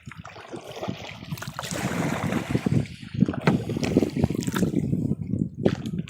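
Noise of a kayak being paddled: water and wind buffeting the phone's microphone, with several sharp knocks in the second half.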